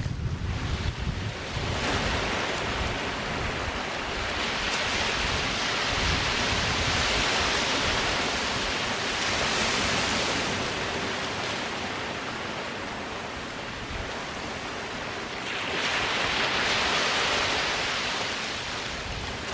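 Sea waves breaking and washing up on a sandy beach: a steady surf hiss that swells twice, once from about four seconds in and again near the end. Some low wind rumble on the microphone near the start.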